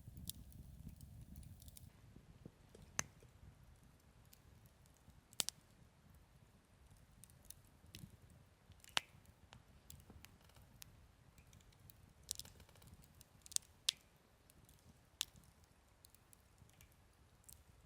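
Wood campfire burning quietly, with scattered sharp pops and snaps every second or so at irregular intervals, over a faint low rumble that eases off about two seconds in.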